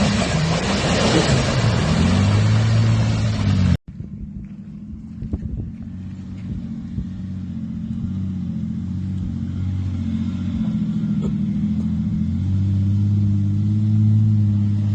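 Turbocharged 4x4 engine revving under load, in two clips joined by a hard cut about four seconds in. The first clip is loud, with a rushing hiss over the engine; the second is quieter, its engine note climbing and falling as the throttle is worked.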